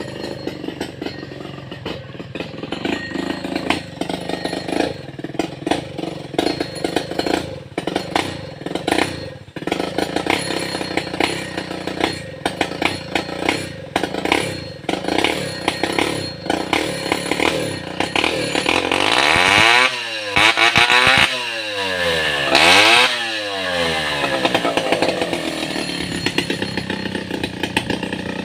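Stihl 070 two-stroke chainsaw running and cutting into a star apple tree, its level uneven. About two-thirds of the way through, the engine revs up high and drops back twice, the loudest part.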